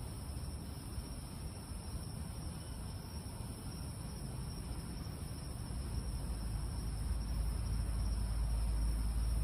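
Steady chorus of night insects, crickets or similar, with a low rumble that builds through the second half, like a vehicle approaching.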